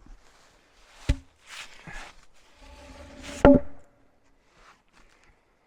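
Two sharp wooden knocks about two and a half seconds apart, the second the louder, with a brief ring after each and scraping and rustling between: heavy timber beams being handled and set down.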